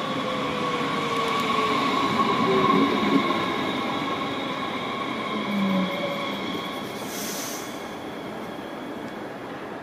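DB Class 430 S-Bahn electric multiple unit pulling in and braking: a falling motor whine and a steady high brake squeal, loudest about three seconds in and fading as it slows. A short hiss comes about seven seconds in.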